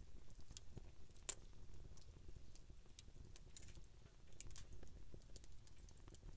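Wood campfire crackling: scattered small snaps and pops over a low rumble, with one sharper pop about a second in.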